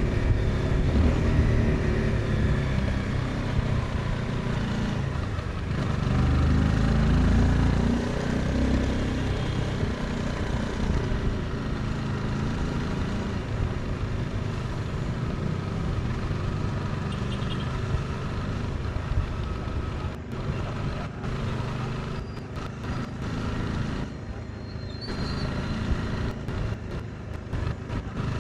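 Honda CBR 250R single-cylinder engine running on the move, rising in pitch about six seconds in as it accelerates. It then settles into steady running and grows quieter toward the end.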